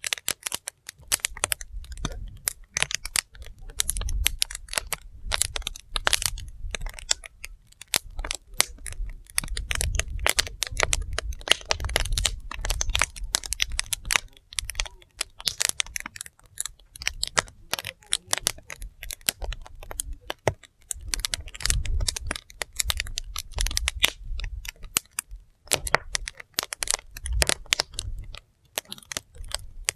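Wood fire burning, with dense irregular crackling and popping over a low rumble of flame.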